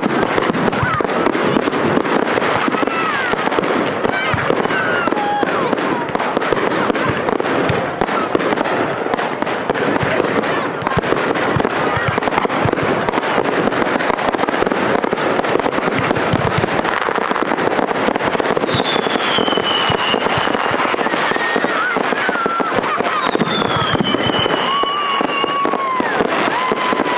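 Fireworks display: dense, continuous crackling and popping, with crowd voices underneath. Two high falling whistles sound in the second half.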